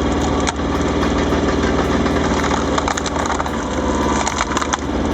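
An engine-powered firewood splitter running with a steady engine drone. Logs split with sharp wooden cracks about half a second in, around three seconds, and around four and a half seconds.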